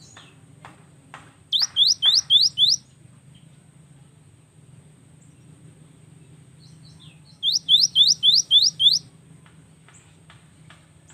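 Cinereous tit (gelatik batu) singing: a phrase of about five quick, high, upward-sweeping notes, then after a pause of about five seconds a second phrase of about six. Faint soft clicks fall between the phrases.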